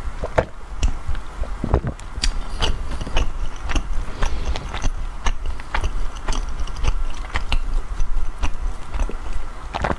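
Close-miked chewing of soft matcha bread, with many sharp wet mouth clicks and smacks at an irregular pace. Near the end she takes a fresh bite.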